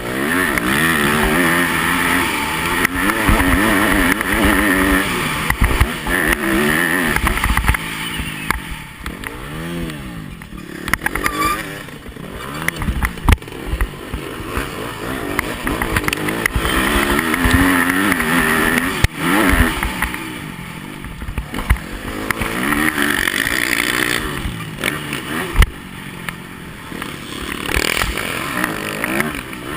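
Yamaha motocross bike engine heard from an onboard camera, revving up and falling off again and again as the rider accelerates and backs off, with occasional sharp thumps.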